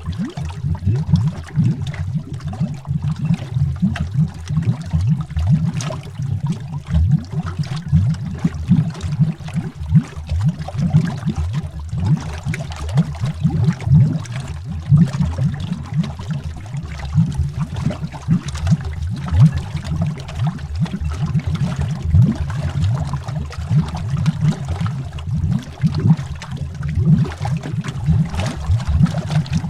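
Underwater bubbles streaming and bubbling: a constant deep burbling made of many quick pops.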